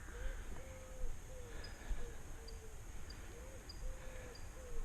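Birds calling: a run of short, repeated mid-pitched notes about twice a second, with faint high chirps at a similar pace, over a low rumble.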